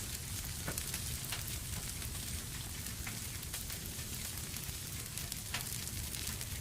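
Wood fire in a fireplace crackling: a steady low rumble of burning with frequent sharp pops and snaps.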